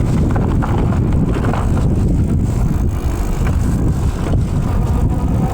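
Wind buffeting the microphone during a bicycle ride: a loud, steady low rumble.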